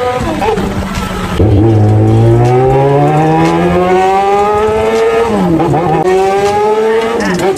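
Yamaha XJ6's 600cc inline-four engine accelerating hard through the gears. Its pitch climbs steadily and drops sharply at each upshift, several times over.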